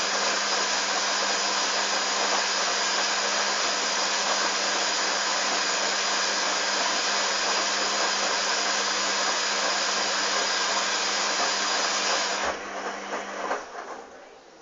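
Hoover Dynamic washing machine filling with water for a rinse: a steady rushing hiss of water through the inlet and detergent drawer over a low hum. The hiss cuts off suddenly near the end as the fill stops, the hum dies a second later, and faint ticks follow.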